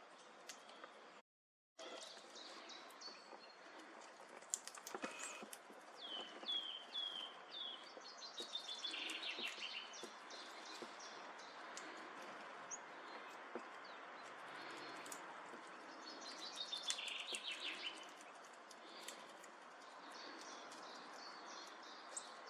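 Wild birds calling and singing over steady outdoor background noise, with a run of short falling chirps and, twice, bursts of quick trilled notes. The sound drops out completely for a moment about a second and a half in.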